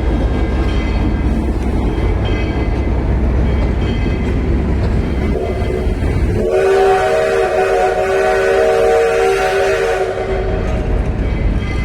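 Train running with a low rumble; about six and a half seconds in, a multi-tone train whistle sounds a steady chord for about three and a half seconds.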